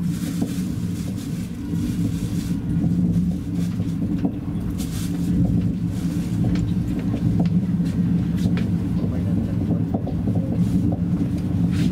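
Moving passenger train heard from inside the carriage: a steady low rumble with a steady low hum running under it, and a few faint clicks.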